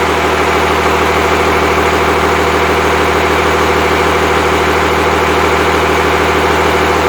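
Freshly rebuilt Cummins 5.9L 12-valve inline-six diesel idling steadily.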